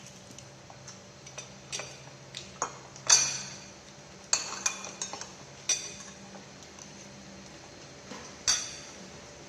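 Tableware clinking: a dozen or so sharp, ringing clinks of utensils against dishes and bowls, irregularly spaced. The loudest come about three seconds in and near the end.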